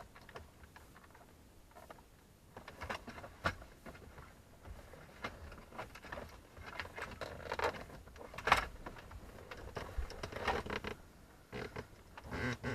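Irregular plastic clicks, knocks and scrapes of hands unplugging wiring connectors from the back of a removed dashboard panel, with one sharper click about two-thirds of the way through.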